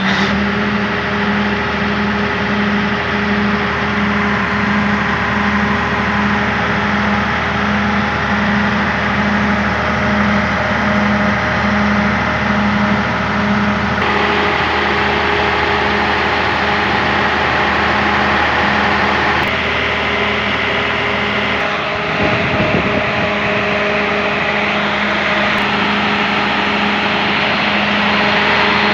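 Caterpillar 3406 inline-six diesel engine running steadily, with a pulsing beat about twice a second in the first half; its note shifts about halfway through and dips briefly near the three-quarter mark.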